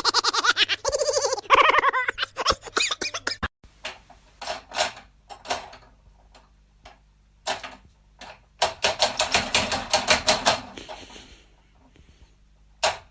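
A short voice-like call, then a series of sharp clicks or taps, scattered at first and then in a fast run of about seven a second for two seconds in the second half.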